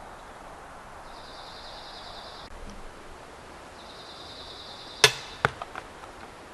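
Outdoor ambience with a high buzzing trill heard twice, then a sharp crack about five seconds in, a second crack half a second later and a few faint knocks.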